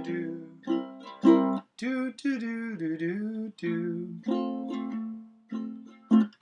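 Ukulele playing a song's intro, with a voice singing the melody on 'do do do' over it, note by note with short breaks between phrases.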